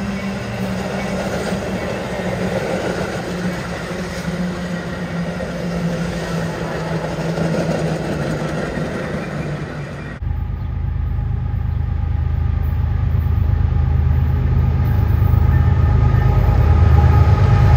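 A Metra commuter train's stainless-steel bilevel coaches rolling past on the rails. About ten seconds in, the sound cuts abruptly to a BNSF freight train's diesel locomotives approaching, their low engine sound growing steadily louder.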